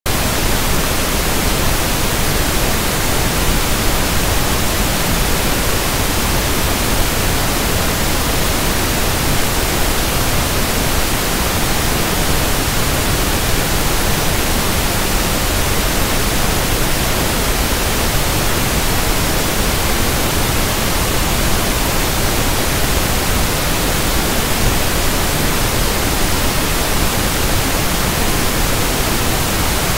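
Steady synthetic pink noise (1/f noise): an even, unchanging hiss spread across the whole range from deep to high.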